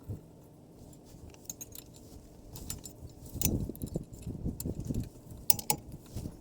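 Metal clinks, taps and rattles of hand tools and loose parts while the cylinder head comes off a Suzuki Colleda's small two-stroke engine. Faint scattered ticks at first, then louder clustered knocks and clatter from about three and a half seconds in, with two sharp metallic clicks near the end.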